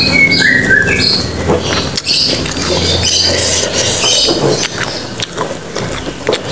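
Close-miked eating: wet chewing and crunching of raw greens and unripe banana dipped in spicy rujak sambal, with lip smacks and repeated crackly bites. There is a brief high squeak near the start.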